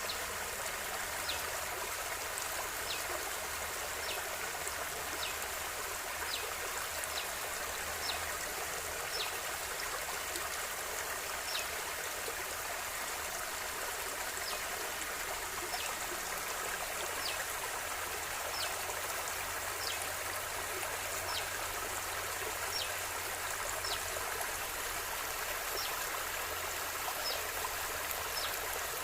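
River water flowing steadily. A short, high, downward-sweeping chirp repeats roughly once a second over it.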